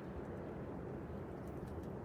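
Blizzard wind gusting: a steady low rush of wind, buffeting the microphone, with a few faint ticks.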